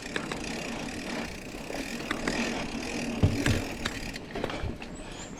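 Mountain bike riding down a dirt single-track: a steady rolling noise with scattered clicks and rattles as it goes over the trail, and a thump about three seconds in.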